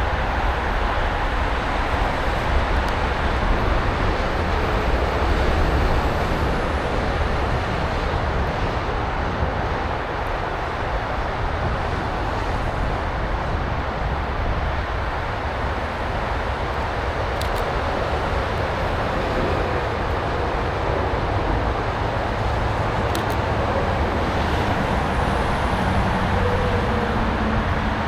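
Steady rumble of road traffic noise from a nearby highway, an even roar without breaks.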